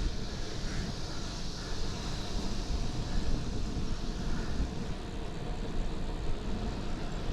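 Wind buffeting the microphone of a chest-mounted action camera while riding a bicycle, a steady irregular low rumble with a constant hiss of road and riding noise above it.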